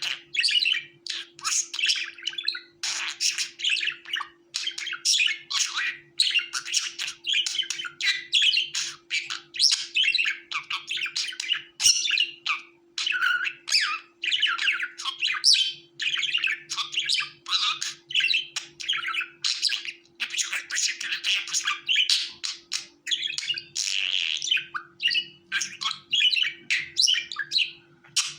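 Budgerigars chirping, warbling and squawking in a continuous, busy stream of short calls.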